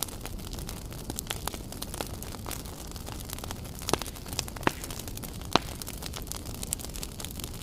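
Wood campfire crackling: irregular pops and snaps over a steady low rush of burning logs, with a few louder snaps near the middle.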